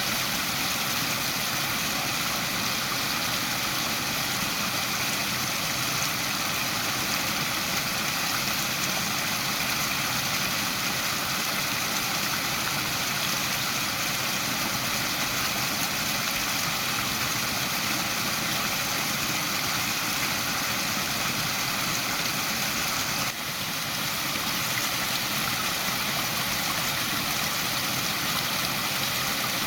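Waterfall: a steady, unbroken rush of falling water, with a slight brief drop in level about three-quarters of the way through.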